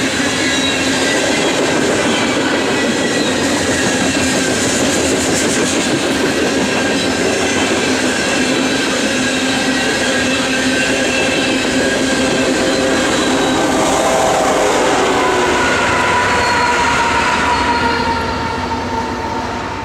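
Freight train cars of a BNSF coal train rolling past at close range, their wheels on the rails making a loud, steady rumble with several thin squealing tones above it. The sound fades in the last two seconds as the cars pass by.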